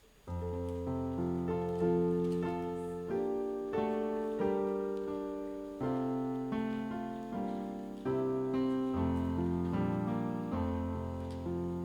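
A piano starts suddenly about a quarter of a second in, playing a slow run of full chords, each struck and left to fade before the next.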